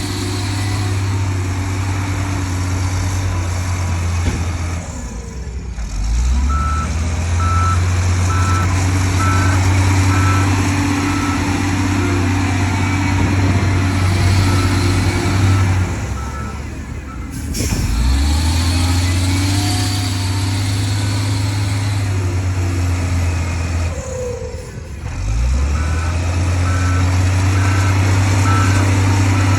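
Heavy diesel earthmoving machinery working. A low engine drone eases off and picks up again about three times, and a reversing alarm beeps in runs of short, evenly spaced high beeps while a machine backs up.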